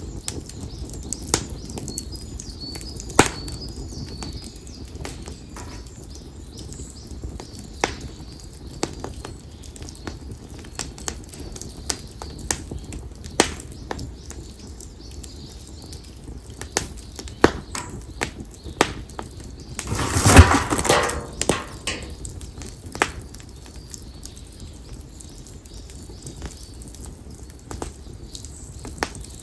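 Split konara oak firewood burning in an open fire, crackling with sharp, irregular pops over a low steady rush of flame. About twenty seconds in comes a louder flurry of dense crackling and hissing lasting a second or two.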